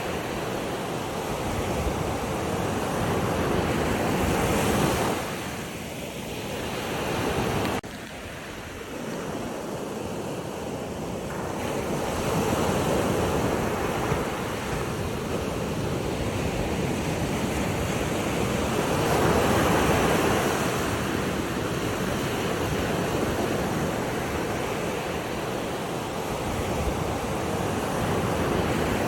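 Waves washing onto a shore, swelling and fading every several seconds, with wind buffeting the microphone. The sound drops abruptly about eight seconds in, then builds again.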